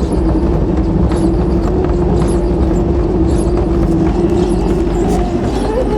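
Hoover AquaVision condenser tumble dryer running with a loud drum rumble and a light knock about once a second. Over it a steady squeal from the failed condensate pump, which can no longer lift water from the reservoir to the door tank, cuts off about five seconds in.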